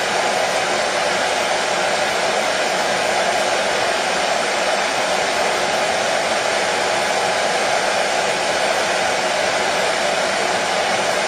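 Hair dryer running steadily, a constant even whooshing hiss with no change in pitch or level, played as white noise to soothe a baby to sleep.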